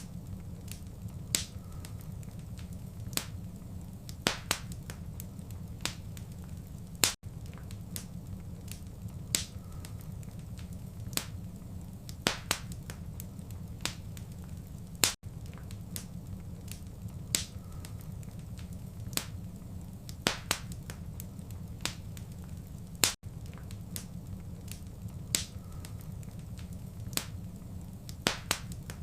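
Wood fire crackling: irregular sharp pops and snaps over a steady low rumble. A brief dropout comes about every eight seconds where the recording loops.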